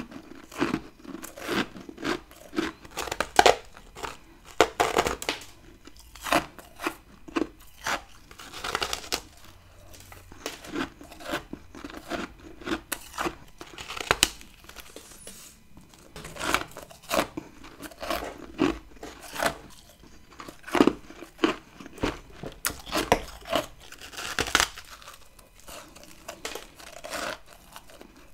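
Close-up crunching of packed freezer frost being bitten and chewed: irregular sharp, crackly crunches, about one or two a second, with louder crunches from fresh bites every few seconds.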